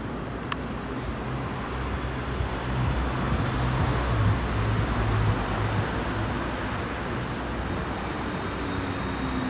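Stadler FLIRT electric multiple unit running in towards the platform: steady rumble of wheels and running gear that grows and is loudest about four seconds in. A thin high whine comes in partway through, and near the end a lower tone falls as the train slows. There is a single sharp click about half a second in.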